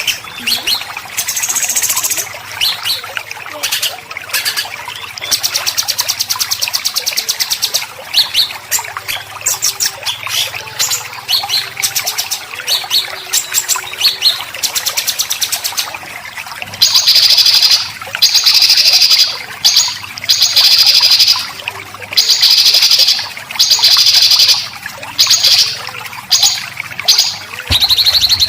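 Songbirds singing a rapid 'besetan' song of white-rumped shama and greater green leafbird: quick chattering, chirping phrases, turning about halfway through into loud, harsh rasping bursts of about a second each, repeated with short gaps.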